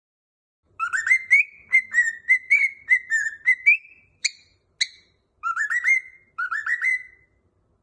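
A cockatiel whistling a song phrase: a quick run of short notes that slide up, two sharp chirps, then two more rising phrases.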